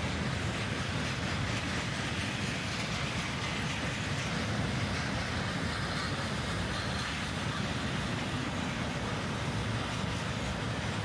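Freight train led by a four-unit diesel locomotive lashup rolling past, a steady rumble of train noise.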